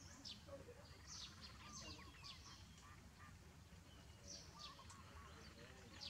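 Faint bird calls: short, quick downward chirps repeating many times, with some softer warbling calls lower in pitch, over a low steady background rumble.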